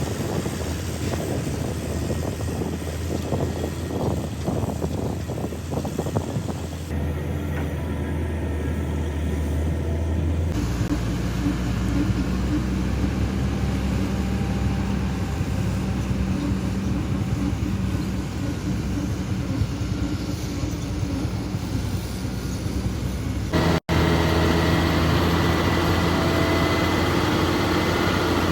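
Heavy diesel engines of earthmoving machinery running steadily with a low drone. The sound changes abruptly a few times, with a brief dropout near the end.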